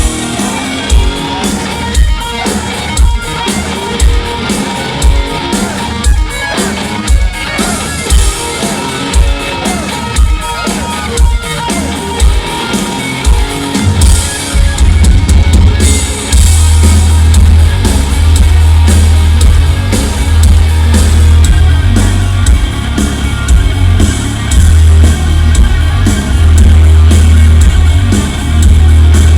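Heavy metal band playing live: an electric guitar riff over evenly spaced bass-drum hits, with the full band coming in hard about halfway through and filling out the low end.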